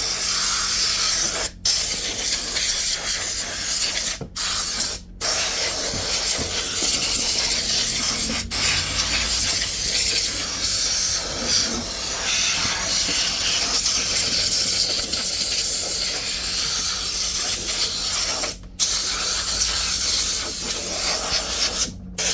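Compressed air from an air compressor's blow gun hissing loudly as it blows dust out of a game console, in long blasts broken by about six brief stops.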